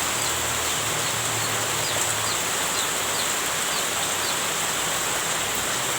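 Heavy rain falling steadily, an even hiss. Over the first four seconds a series of short, high, falling chirps comes through it, about two a second.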